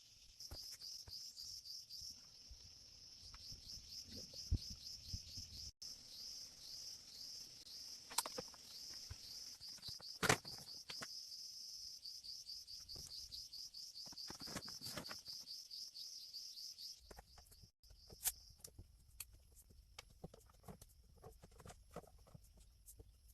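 Crickets chirping in a rapid, even pulsing trill that turns to a steadier high buzz near the end. A few sharp knocks and taps sound over it.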